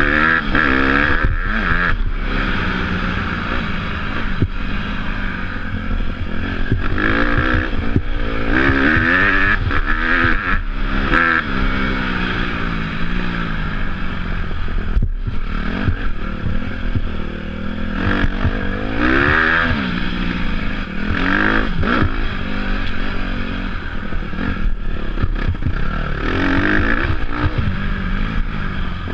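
Off-road motorcycle engine being ridden, revving up and falling back again and again as the rider works the throttle and gears, with wind rushing over the mic and the bike rattling and clattering over rough ground.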